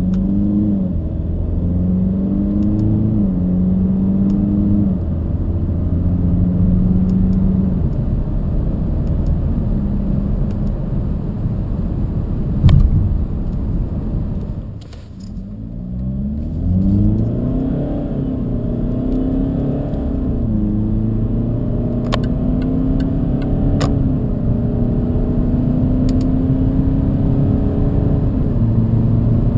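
Jaguar XF 2.2D's four-cylinder turbodiesel accelerating hard, heard inside the cabin. Its note climbs and drops back again and again as the eight-speed automatic shifts up. About halfway there is one sharp knock, the sound dips briefly, then a fresh run climbs through several more upshifts.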